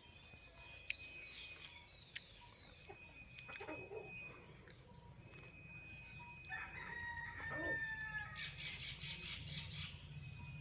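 Bird calls: a short call about a third of the way in, a longer drawn-out crowing call a little past halfway, then a quick run of repeated chirps near the end, over a faint steady high tone.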